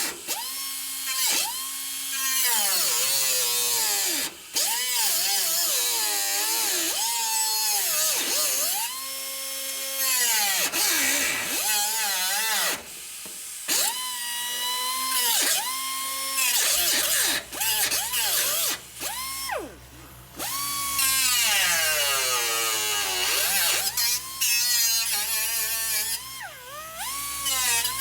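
Handheld power tool, a drill or grinder, triggered again and again: its motor whine rises, holds briefly and winds back down, over and over. A low steady hum joins a little past halfway.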